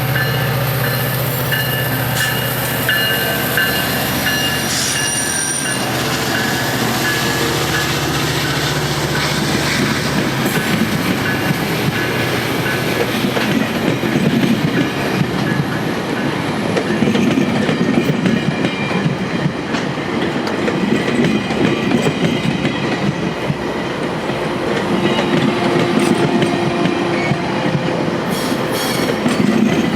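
GO Transit double-deck commuter coaches rolling past as the train pulls out, wheels clacking over rail joints with a light squeal in the first few seconds. A steady low diesel drone stops about ten seconds in.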